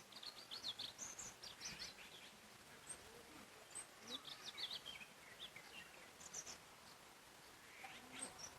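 Songbirds chirping in short, quick phrases of high notes, repeated several times, over a faint steady hiss of forest ambience.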